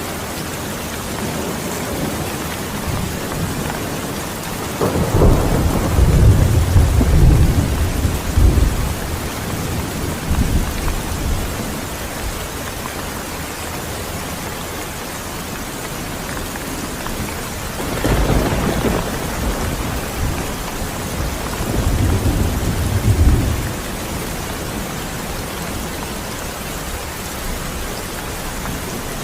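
Steady heavy rain with thunder rumbling twice, a long low rumble about five seconds in and another near the middle.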